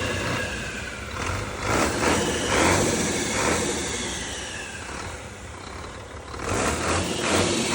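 An engine running and being revved: it climbs about two seconds in, slowly settles back, then climbs again near the end.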